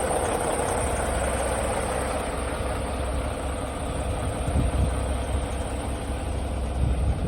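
Semi truck's diesel engine running steadily with a low rumble.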